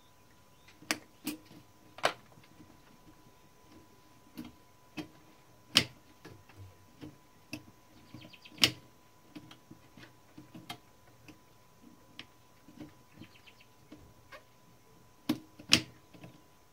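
Irregular clicks and clacks of a 1912 Mercedes No. 3 typewriter's key and typebar mechanism as a newly fitted key is pressed over and over to work it in until it seats, with a few sharper, louder clacks among lighter ticks.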